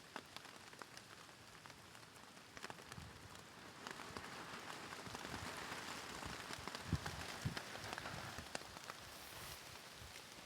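Rain falling on a plastic sheet overhead, with many single drops tapping on it; the rain gets heavier about four seconds in, with a few heavier drips thudding.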